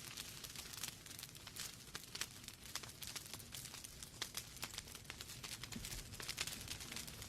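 Wood fire burning in a fireplace: logs crackling and popping in quick irregular snaps over a low, steady rumble of flame.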